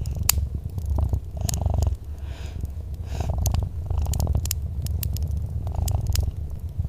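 A cat purring continuously in a low rumble that swells every second or two, with sharp crackles and pops from a fireplace scattered through it.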